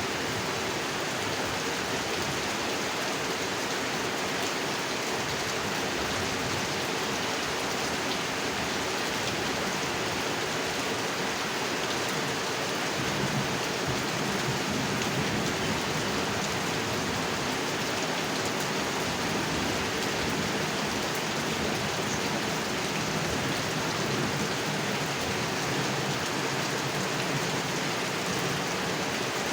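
Steady rain falling on a pond, an even, dense patter of drops on water, growing slightly heavier about halfway through.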